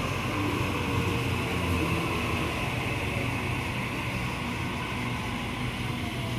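Electric suburban train running at a station platform: a steady rumble and hum, with a faint whine falling in pitch near the end.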